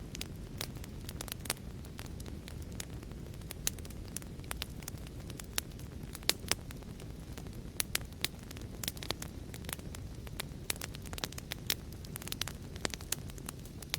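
Fire crackling: a steady low rumble of burning with many sharp, irregular pops and snaps scattered throughout.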